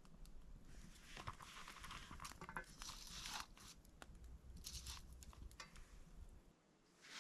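Faint rustling and crinkling in several short bursts, over a low steady rumble that cuts off about six and a half seconds in.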